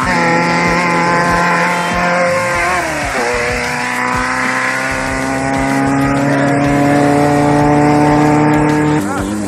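Off-road race vehicle's engine accelerating hard: its pitch dips about three seconds in, then climbs steadily for several seconds before changing abruptly near the end.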